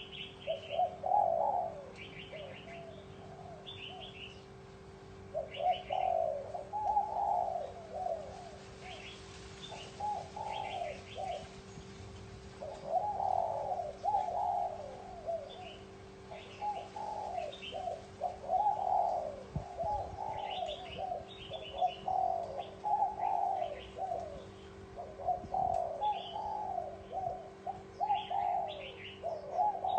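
Spotted dove cooing again and again, each phrase a run of low coos, in the bright 'chuông đồng' (bronze bell) voice prized for calling other doves. Shorter, higher chirps come in between the phrases over a faint steady hum.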